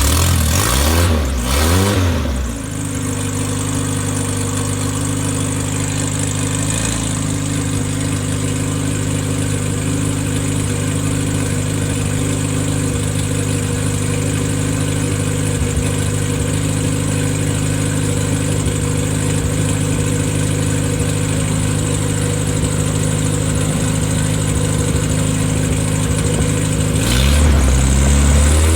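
Freshly rebuilt Triumph Spitfire 1500 four-cylinder engine with no muffler, started cold: it cranks and catches over the first couple of seconds, then runs steadily and loudly, and about 27 seconds in it is revved up, rising in pitch.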